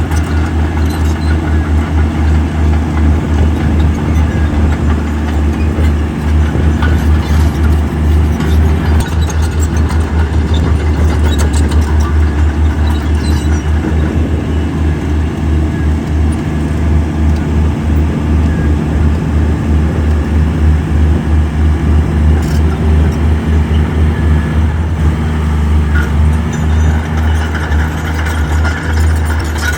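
Heavy diesel engine of earthmoving machinery running steadily under load, a loud low drone with a slight pulsing, and a few faint clicks and knocks over it.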